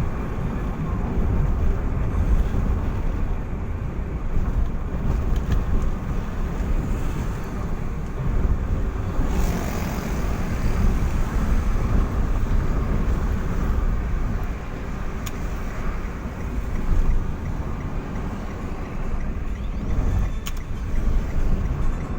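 A vehicle on the move, with a steady low rumble of engine and road noise.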